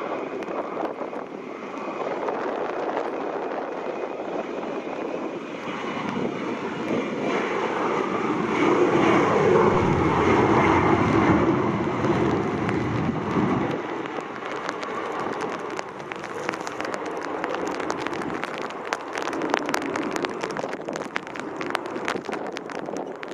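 An airplane passing, its engine noise building to a peak about ten seconds in and then fading. In the second half, gusty storm wind crackles on the microphone.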